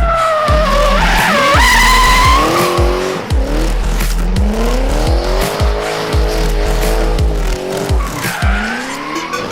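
Drift car engine revving up and down, with tyres squealing in the first few seconds, over background music with a steady beat of about two a second.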